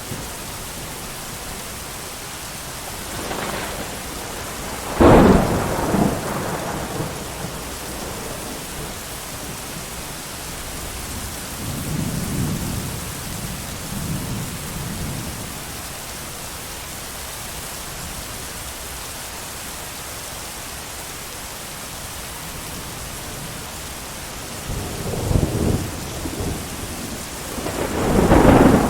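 Steady heavy rain with thunder. A sharp clap comes about five seconds in, low rumbles roll through the middle, and a loud peal builds near the end.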